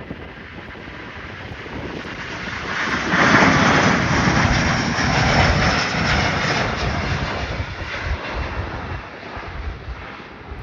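Airliner passing close by, its engine noise building to a peak about three seconds in, holding for a few seconds, then fading away.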